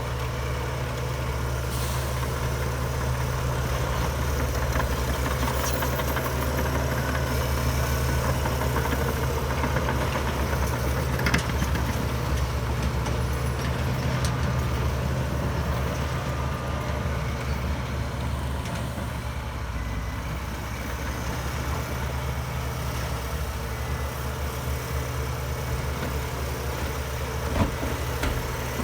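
Heavy diesel earthmoving machinery running steadily, with a couple of brief metallic knocks, one about a third of the way in and one near the end.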